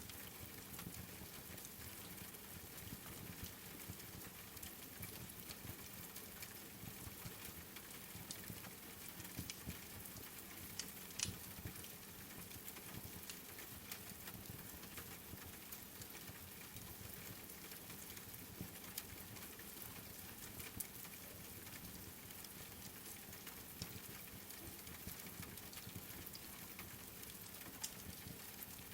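Steady rain mixed with a crackling wood fire: a soft, even hiss with scattered small pops, and one sharper pop about eleven seconds in.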